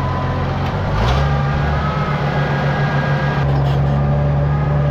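Oliver tractor engine running, its speed stepping up about a second in and then holding steady as it pulls off with a wagon.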